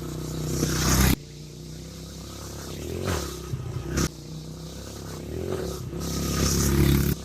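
Dirt bike engine revving and accelerating hard, building in loudness and pitch, breaking off suddenly about a second in, again about four seconds in, and near the end.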